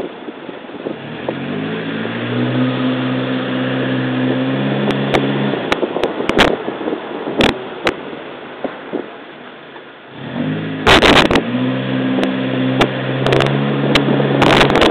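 Suzuki Jimny JB33's 1.3-litre four-cylinder engine pulling away, its pitch rising and then holding steady before dropping off at about five and a half seconds, then climbing again near the end over steady road and wind noise. Several sharp knocks come in the last few seconds.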